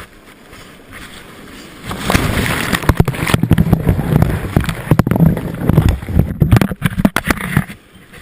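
Surf water rushing and splashing against a GoPro housing as the canoe rides the waves, with sharp knocks. It turns loud about two seconds in and drops away near the end.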